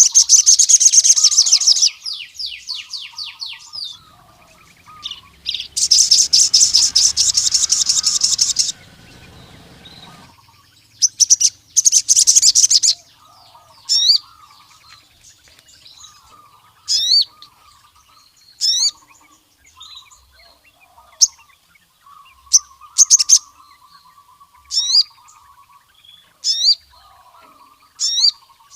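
Male crimson sunbird (sogon) singing. Loud, rapid high trills come in bursts in the first half, then sharp, high, sweeping call notes repeat about every two seconds. Fainter, lower chattering runs underneath.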